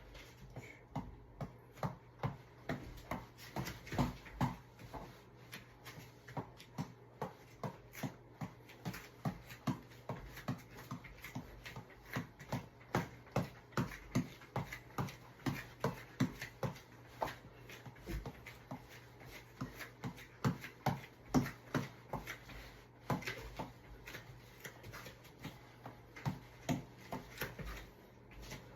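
Repeated short knocks or taps in a fairly steady rhythm of about two a second, some hits louder than others, from a workout.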